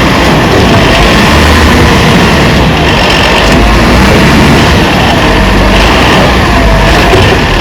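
Heavy diesel machinery running loud and steady, with a deep engine rumble and a faint wavering whine that comes back about once a second.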